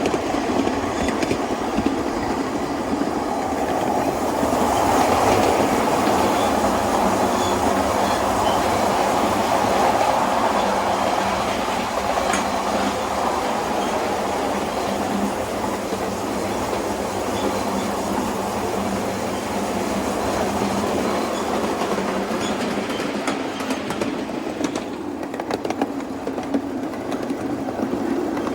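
A 7¼-inch gauge miniature train running along the track, a steady rolling rail noise that grows louder about four seconds in and eases off after about ten seconds.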